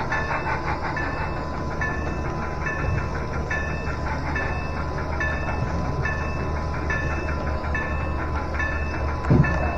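Model train running along the layout: a steady motor hum and wheel rumble with a regular click about every three-quarters of a second, and one louder bump near the end.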